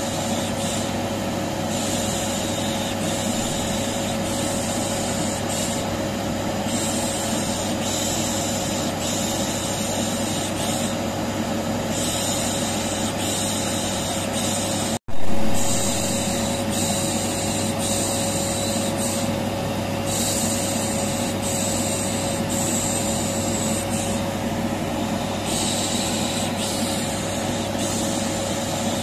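Vacuum cleaner running steadily with a constant whine, overlaid with a repeated 'shh' shushing hiss that comes and goes every second or so. About halfway through the sound cuts out for an instant and comes back with a brief loud jump.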